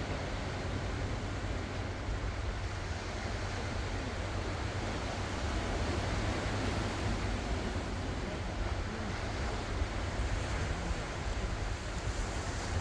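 Ocean waves washing onto the shore in a steady, continuous surf, with a deep rumble and wind buffeting the microphone.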